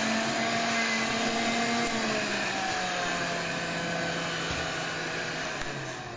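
Household vacuum cleaner running with a steady motor whine, its pitch sinking slightly and the level easing off gradually.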